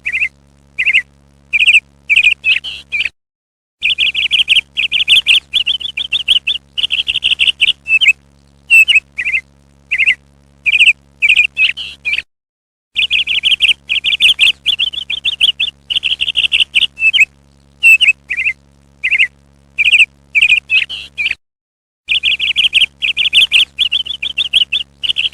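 Parrot calling over and over: loud high chattering calls, some short and single, others in longer rapid runs. It breaks off into silence three times, about 3, 12 and 21 seconds in. A low steady hum sits under the calls and drops out with them.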